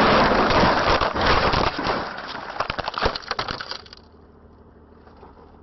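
Vehicle collision: a loud crash of crunching and breaking, followed by scattered clinks and rattles of debris that die away about four seconds in.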